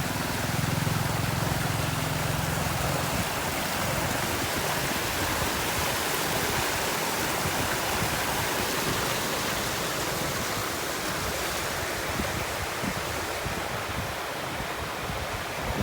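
Steady rushing of water pouring out while a flooded basement is pumped out, with a low hum during the first few seconds.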